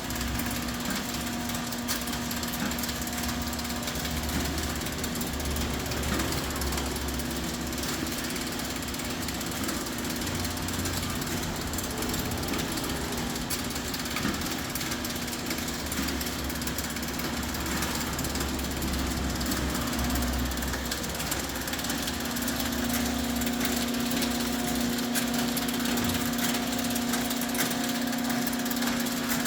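Food-processing machine with a lift-out conveyor running: a steady motor hum with a constant tone and a mechanical clatter. The hum grows stronger about three-quarters of the way through.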